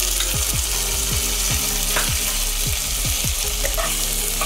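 Chopped onions and tomatoes sizzling in hot oil in a non-stick pan, with a wooden spatula stirring through them.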